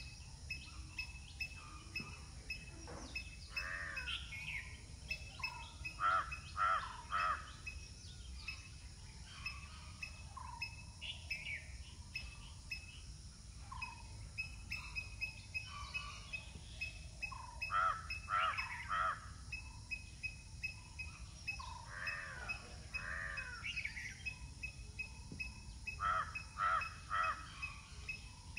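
Birds calling outdoors, with short harsh calls repeated in clusters of three or four, over a faint steady ticking and low background noise.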